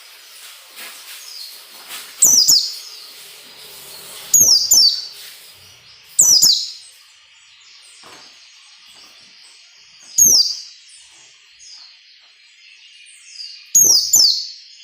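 White-eye (pleci) singing: loud, sharp, high calls that sweep downward, some in quick pairs, every second or few, with softer twittering between them.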